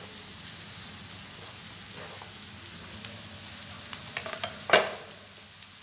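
Chopped vegetables sizzling steadily in hot oil in a frying pan as chopped green capsicum and sweet corn are tipped in from a cutting board. A few light clicks, and one sharp knock about three-quarters of the way through.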